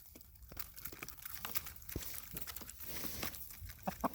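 Chickens pecking at whole corn and oats: a steady scatter of quick, irregular clicks and rustles.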